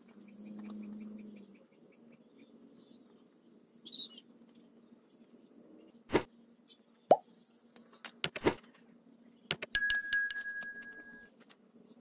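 Copper tubing handled against a wire fan guard: a few scattered knocks, then a ringing metallic clink near the end that dies away over about a second.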